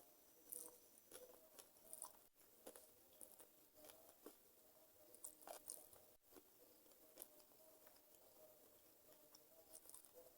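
Faint chewing of chicken feet: irregular small wet clicks and crackles as skin and cartilage are bitten and chewed, in a few clusters.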